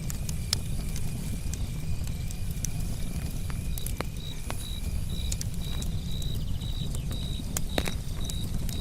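Campfire crackling, with scattered sharp pops from the burning wood over a steady low rumble of the flames. From about four seconds in, a cricket chirps in a steady rhythm, about two chirps a second.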